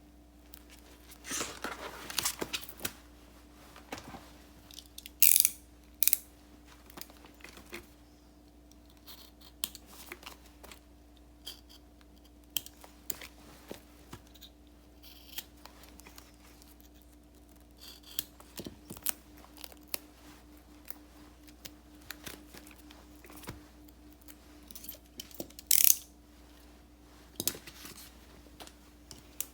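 Paper and sticker handling for diary decorating: irregular short rustles, peels and snips in bursts, separated by pauses. The sharpest, loudest bursts come about five seconds in and again near the end.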